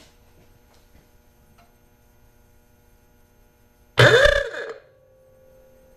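Ford Model A's freshly rebuilt electric ah-oo-gah horn sounding one short blast about four seconds in, its pitch rising then falling, and working on the test.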